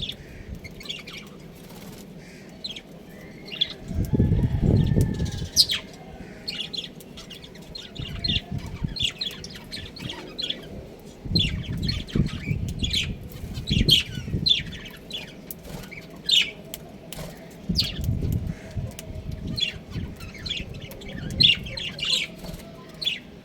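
Budgerigars chirping and chattering in quick, high, overlapping chirps, with bouts of low rustling, like fluttering wings, about four seconds in and again later.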